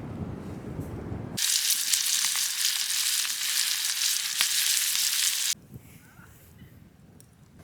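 Food sizzling and crackling as it fries in a pan, starting abruptly about a second and a half in and cutting off suddenly about four seconds later. Before it, a low rumble of wind on the microphone; after it, near quiet.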